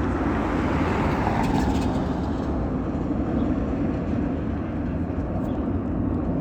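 Pratt & Whitney PW4158 turbofans of an Airbus A300F4-622R freighter at climb power: a steady low jet rumble, its brighter upper part fading after about two seconds as the aircraft climbs away.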